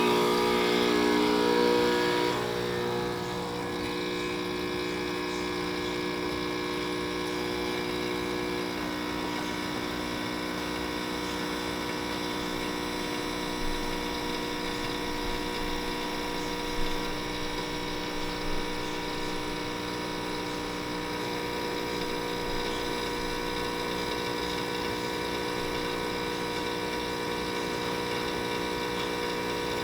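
ECM Giotto espresso machine's pump running steadily while it pulls a shot of espresso, a hum that is louder for the first couple of seconds and then settles to an even level.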